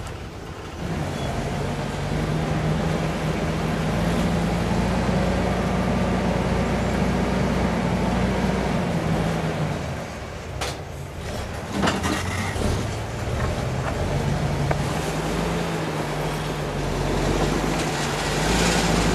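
A heavy vehicle's engine runs steadily. It eases off briefly about halfway through, with a couple of sharp knocks, then picks up again.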